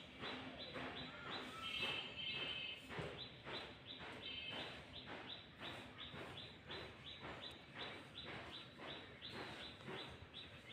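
Birds chirping, a steady run of short repeated notes about three a second, with a couple of brief high trills in the first few seconds.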